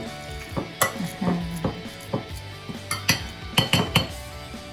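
Potato masher mashing avocado in a bowl: irregular knocks and clinks of the masher against the bowl, with a quick cluster of them about three to four seconds in.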